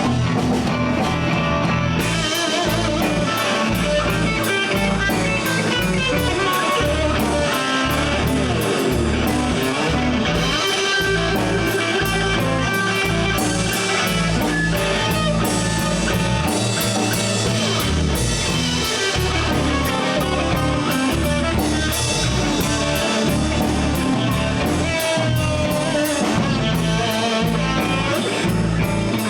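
Live blues band playing an instrumental break: electric guitar soloing with bent, sliding notes over drum kit and bass guitar.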